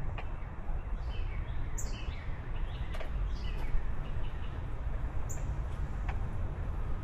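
Songbirds chirping in short calls over a steady low rumble, with a couple of faint clicks.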